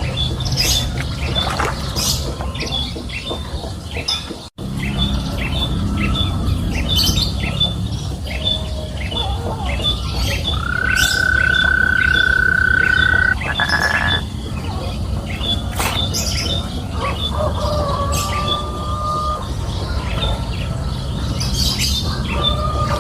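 Outdoor ambience with birds chirping and calling over a steady low rumble. A rapid, regular high ticking runs throughout, and one held whistling tone lasts about three seconds near the middle. The sound drops out briefly about four and a half seconds in.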